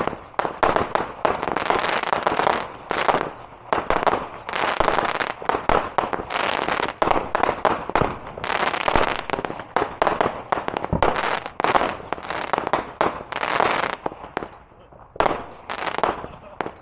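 Consumer fireworks going off: a rapid, dense run of sharp bangs and crackles, thinning to a few separate bangs near the end.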